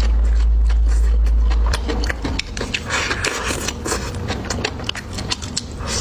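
Close-miked eating sounds: chewing with wet clicks and crunches, with a deep low rumble for the first couple of seconds.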